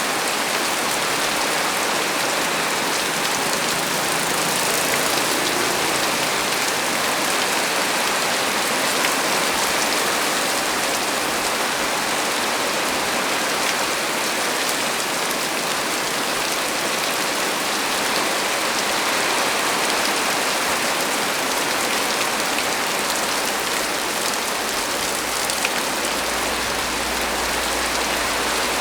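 Heavy rain falling steadily, a dense even hiss of drops on leaves and surfaces. A faint low rumble comes in near the end.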